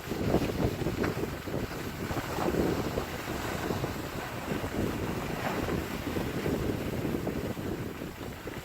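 Wind rushing over the microphone, with a rough, uneven hiss and scrape of skis sliding over snow.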